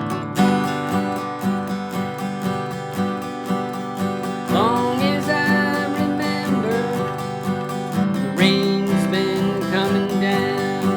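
Acoustic guitar strumming a steady rhythm, with a sliding melody line joining about four and a half seconds in.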